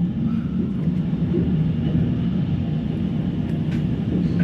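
Steady, loud low roar of a violent (F4) tornado's winds passing close by, with a couple of faint knocks near the end.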